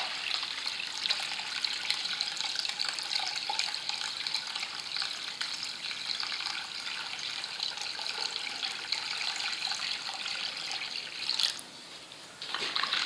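Water being poured into the casing of a Honda WB20XT semi-trash pump to prime it: a steady pouring trickle that stops near the end.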